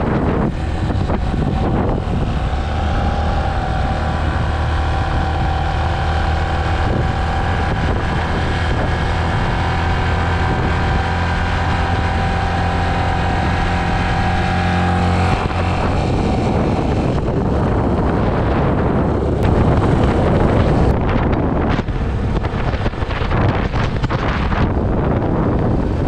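Yamaha Serow motorcycle's single-cylinder engine running at a steady speed under wind noise on the microphone; about 15 s in the engine tone fades and mostly wind and road rush remains.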